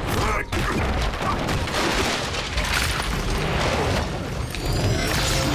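Film fight sound effects: a dense, continuous run of booming impacts and crashes.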